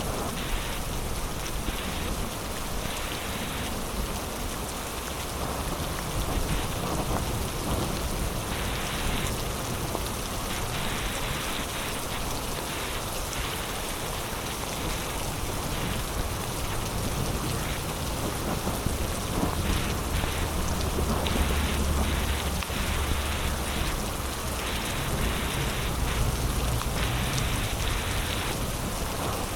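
Heavy rain falling steadily in a storm, a continuous hiss of drops on surfaces. A low rumble of thunder swells about two-thirds of the way through and rolls on near the end.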